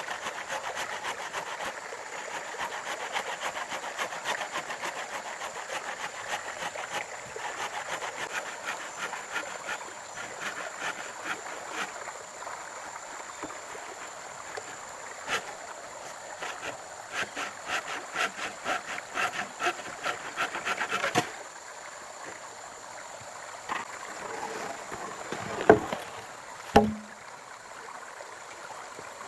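Wood being worked by hand in quick, even, rhythmic strokes, about two to three a second, that stop suddenly about 21 seconds in. Two sharp knocks follow near the end.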